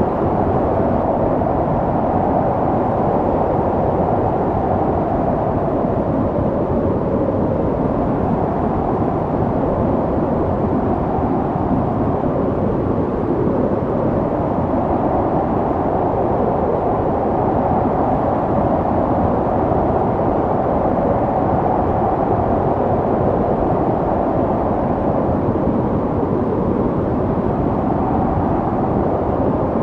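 Snowstorm wind blowing steadily, a low, dense rushing noise whose mid-pitched part slowly swells and eases over several seconds.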